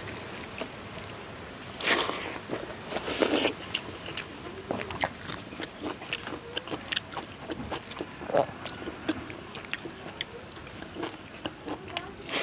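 Close-miked eating sounds: crunching and chewing with many small wet clicks, and two louder crunchy bursts about 2 and 3 seconds in.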